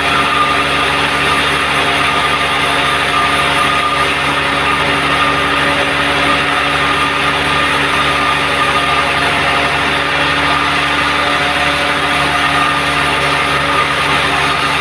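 Band sawmill running steadily, a constant machine drone with a high steady whine over it.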